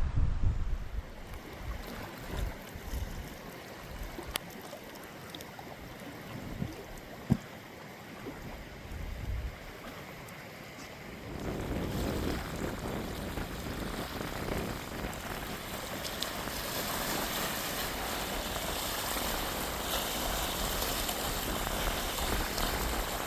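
Strong wind on a lake: gusts buffet the microphone with low rumbles at first, with one sharp knock about seven seconds in, then from about eleven seconds a steady, louder rush of wind and wind-driven waves.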